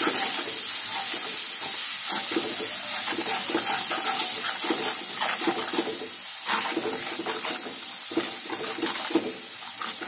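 Ground spice paste sizzling in hot oil in a wok, stirred with a metal spatula that scrapes and taps the pan over and over. It is being sautéed until fragrant, and the sizzle eases a little toward the end.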